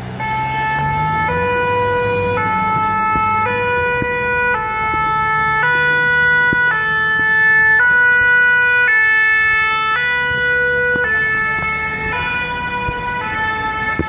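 Emergency vehicle's two-tone siren, the French 'pin-pon' type, switching between two pitches about once a second as the vehicle passes close. It grows louder to a peak a little over halfway through, then eases off slightly. An engine rumbles underneath.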